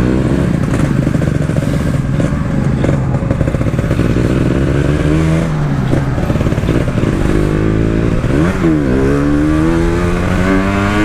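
Two-stroke motorcycle engine and exhaust under way, revving up through the gears: the pitch climbs, eases off, then dips sharply once about eight and a half seconds in at a gear change before climbing again.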